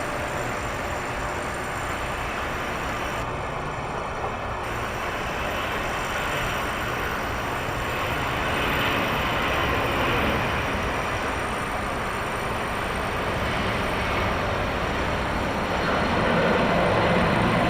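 Jet airliner engines, a steady rushing noise that swells about eight seconds in and again near the end.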